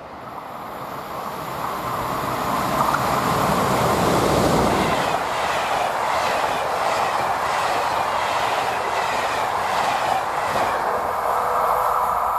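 Train passing close by, building up over the first couple of seconds and then holding, with a regular run of wheel clacks over the rail joints through the middle.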